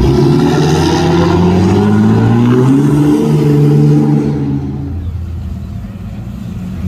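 A car engine revving loudly, its pitch climbing over the first few seconds. It then falls back to a quieter, low running sound from about four and a half seconds in.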